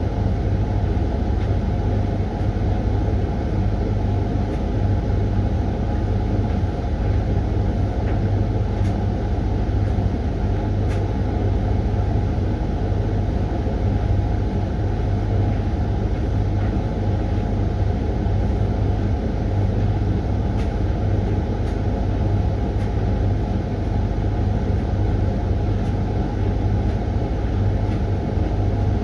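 Hoover washing machine on its 20-minute Refresh programme, drum spinning at steady speed with a loud, even rumble and a steady hum, with a few faint ticks.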